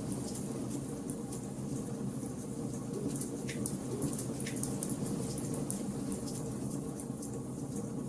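Wood fire burning in a fireplace: a steady low rumble of flames with dense fine crackling and a few sharper pops.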